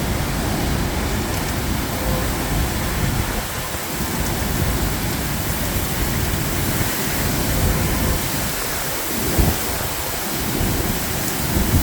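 Severe tornado storm: heavy rain and strong wind rushing without pause, with gusts buffeting the microphone in a low, uneven rumble. A brief low thump about nine seconds in.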